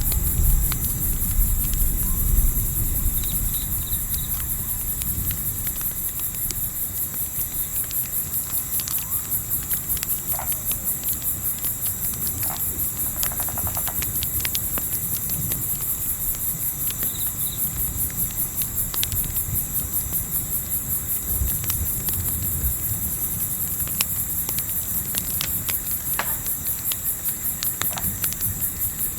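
Crickets chirping in a fast, even pulse, over a low rumble of wind that is strongest in the first few seconds. A campfire crackles now and then with scattered sharp pops.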